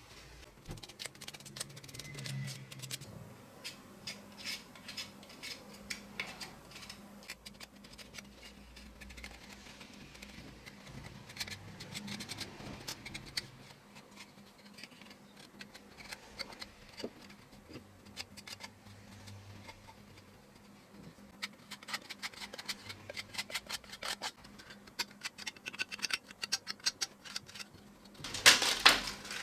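Close-up hand work on small parts: irregular light clicks, ticks and scratches, growing denser in the last third, with a louder burst of noise about a second before the end.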